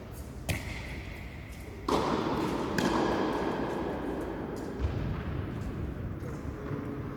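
Tennis balls struck by rackets in a rally: three sharp knocks about two seconds apart, each with a brief high ring from the strings. A louder stretch of noise lasts for about two seconds in the middle.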